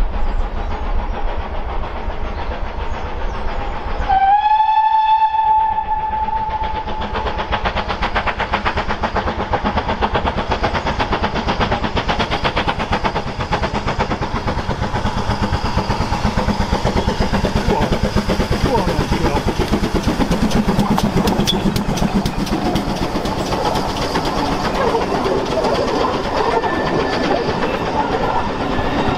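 GWR Prairie tank steam locomotive 5541 sounding its whistle once for about two seconds, then working past with a fast run of exhaust beats and rolling wheels that is loudest about two-thirds of the way through.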